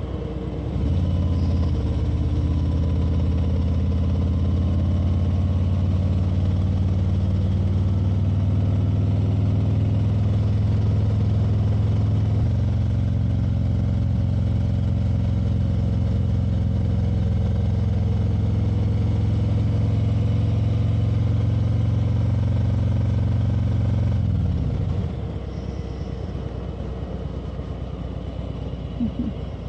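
Motorcycle engine running at a steady cruise, with one shift in its note about halfway through. Near the end the engine eases off and goes quieter.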